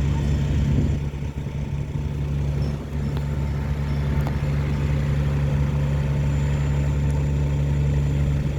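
Tugboat diesel engine running loud and steady, a deep low drone, while the tug tows a train of loaded barges.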